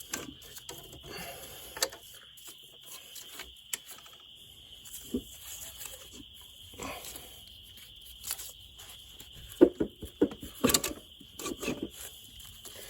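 Scattered clunks and clinks of metal as the cylinder head is worked free and lifted off a Case 188D diesel engine block. The loudest knocks come near the end, and a steady high-pitched tone runs underneath.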